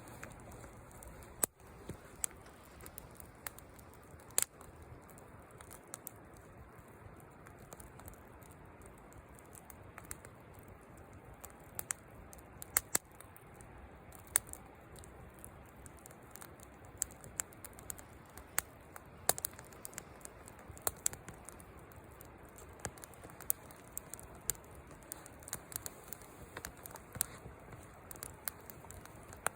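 Wood fire burning in a Petromax fire bowl, crackling with irregular sharp pops over a low steady hiss.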